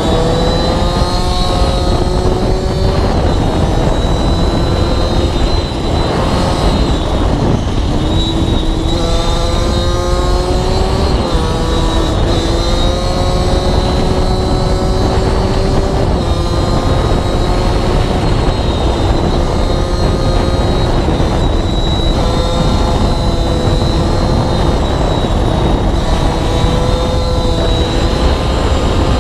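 Aprilia RS4 50's two-stroke 50 cc single, fitted with a Giannelli carbon exhaust, ridden hard. Its note climbs slowly in pitch and drops back several times as it goes through the gears, under heavy wind noise on the microphone.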